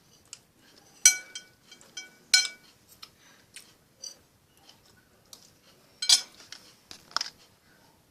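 Cutlery clinking against a plate: a few sharp clinks, some ringing briefly, about a second in and again near the end.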